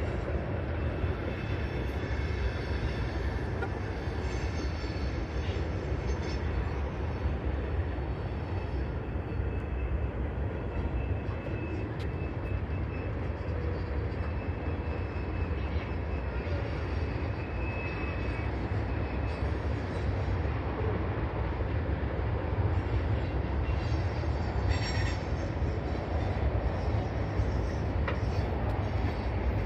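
A long freight train of tank cars rolling past on the rails, a steady, unbroken rumble of wheels on track.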